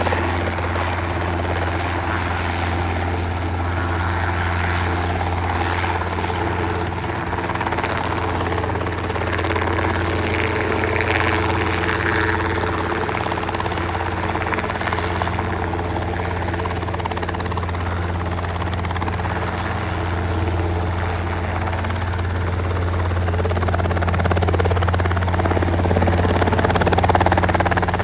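Robinson R22 light helicopter running steadily with a strong low engine hum under the rotor noise, getting a little louder near the end.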